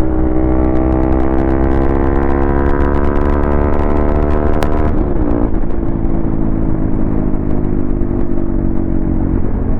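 Modified Hero XPulse 200 single-cylinder motorcycle engine under way, pulling up steadily in pitch for about five seconds. It then drops, as with an upshift, and runs on steady at lower revs.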